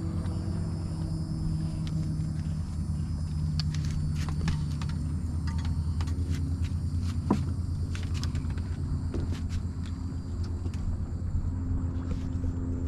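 Boat motor running steadily at low speed, a low hum whose pitch shifts slightly a couple of times. Scattered light clicks and knocks come through the middle, with one sharper knock a little past halfway.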